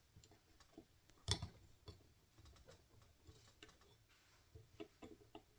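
Faint scattered clicks and taps of small parts and a hand tool being handled at the bench, with one sharper click about a second in.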